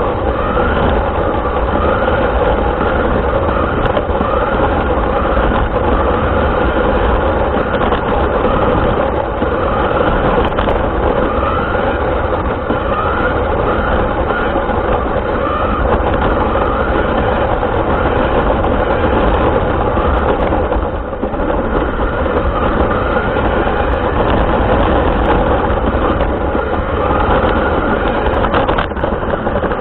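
An RC car's motor and drivetrain running steadily with rolling noise, heard from a camera mounted on the car. The pitch rises and falls slightly, about once a second.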